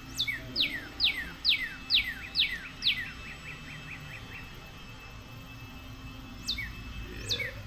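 A songbird singing a phrase of about seven clear, falling whistled notes, roughly two a second, that ends in a short fast trill. It starts the phrase again near the end.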